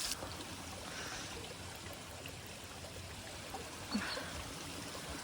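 A small stream of water trickling and running steadily, with a short thump about four seconds in.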